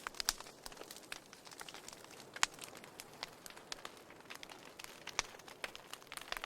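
Wood fire in a fireplace crackling: irregular sharp pops and snaps over a faint steady hiss, with a few louder pops scattered through.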